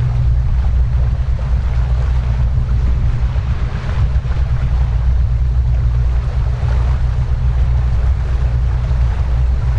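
Powerboat running under way: a steady low engine rumble under rushing water and wind buffeting the microphone.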